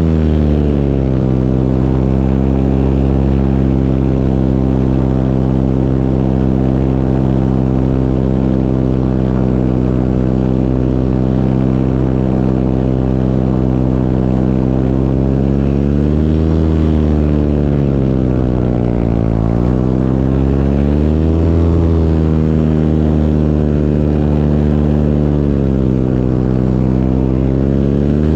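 Small propeller engine running steadily in flight, its pitch dipping and rising again a few times past the middle as the throttle or distance changes.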